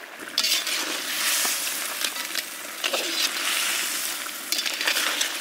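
Crabs frying and sizzling in oil and masala in a large wide pan, stirred and turned with a ladle. The sizzle swells up about half a second in, with scattered scrapes and clicks of the ladle.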